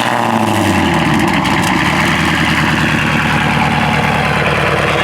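Car engine idling high just after a cold start, the revs easing down slightly in the first second and then holding steady.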